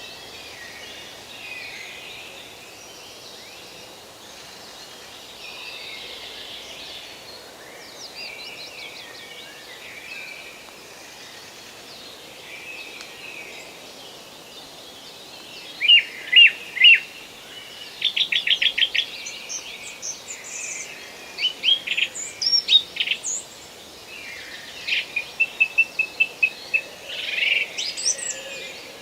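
Songbirds singing in a forest: a soft background of distant chirping, then from about halfway a nearer bird joins with loud bursts of fast repeated notes and short trills.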